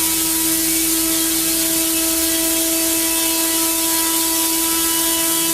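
The single engine of a small rotary-wing micro air vehicle running at a steady speed: a constant whine over a strong hiss, with no change in pitch or level.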